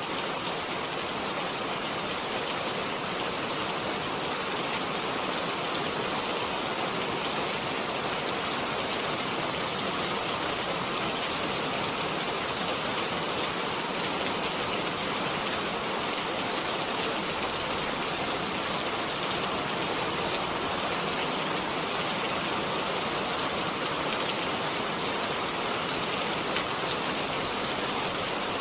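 Steady rain falling, an even hiss of rain with fine scattered drop ticks, unchanging throughout.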